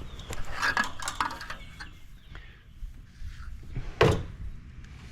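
Scattered clinks and knocks of hand tools, a quick run of them in the first second or so and one louder knock about four seconds in.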